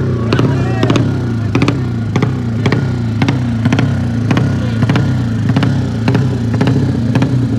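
200cc motocross bike engines running steadily, with slight rises and falls in pitch.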